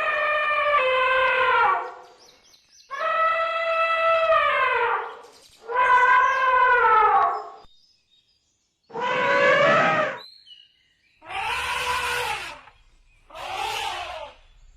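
An animal giving a series of long, drawn-out calls, about two seconds each, that drop in pitch at the end, followed by shorter, rougher calls.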